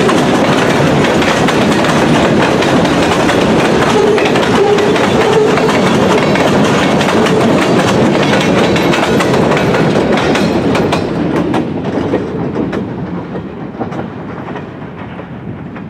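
Freight cars rolling past close by, steel wheels clicking over the rail joints. The sound fades steadily from about ten seconds in as the end of the train moves away.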